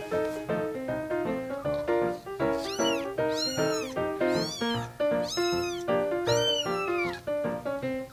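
Cat meowing five times in a row, each call a high, arching meow, the last one longest and trailing down, over background piano music.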